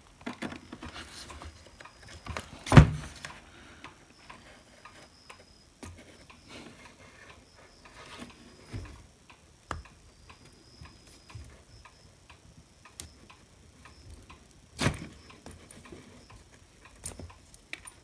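Scattered small clicks and knocks of hand tools and plastic parts as a glued hot air gun handle is worked apart. There are two louder knocks, one about three seconds in and one about fifteen seconds in.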